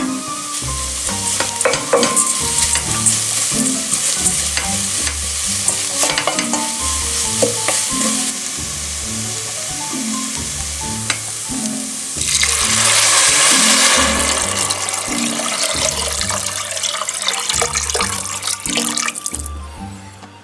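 Onion, grated carrot and vermicelli sizzling in olive oil in a stainless steel pot as they are stirred. About twelve seconds in, water poured into the hot pot gives a louder rushing hiss for about seven seconds, then cuts off suddenly. Background music with a steady beat plays underneath.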